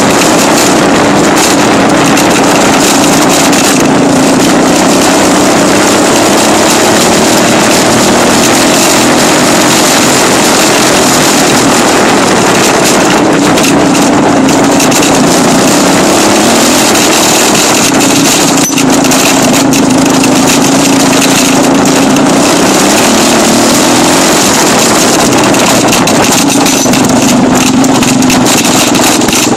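Dirt bike engine running close to the microphone, recorded loud, mostly holding steady revs. The pitch sags about sixteen seconds in, then climbs back up.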